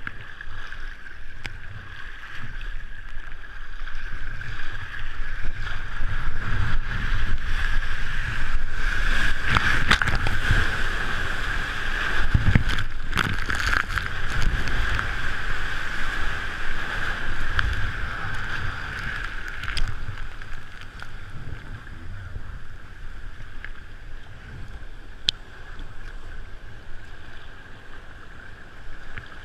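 Surf kayak moving through breaking surf: rushing water and wind buffeting the camera microphone. It swells louder about four seconds in and eases off after about twenty seconds.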